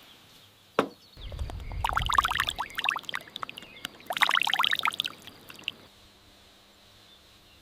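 Something being poured in two bursts a second or so apart, with a single knock just before.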